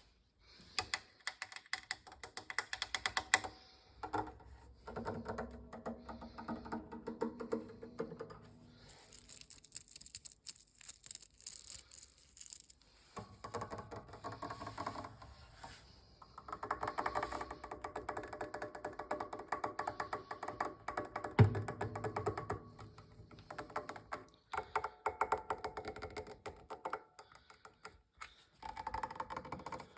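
Fast ASMR tapping on a series of household objects, changing object every few seconds; some of the tapped objects ring with a clear pitch. A single heavier knock comes about two thirds of the way through.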